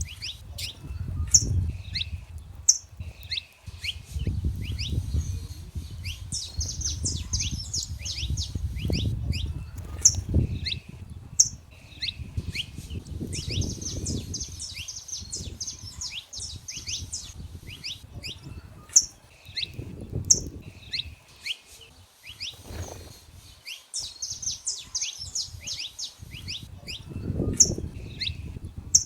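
Saffron finches singing: bursts of rapid twittering phrases every few seconds, with sharp chip notes in between, over a low rumble that rises and falls.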